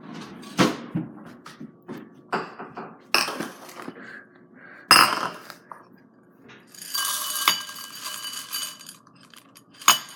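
Dishes knocking and clinking several times, then dry Boo Berry cereal poured into a bowl, rattling for about two seconds from about seven seconds in, with the bowl ringing.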